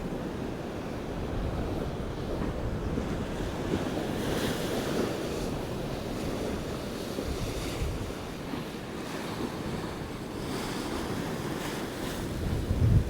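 Rough North Sea storm waves breaking and washing against the sea wall in a gale, with wind buffeting the microphone. The surf swells into louder hissing surges about four and ten seconds in.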